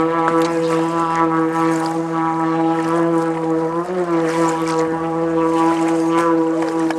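Engine of a home-built Subaru amphibious car running at a steady speed as it drives through the water, a constant drone with a brief pitch wobble about four seconds in.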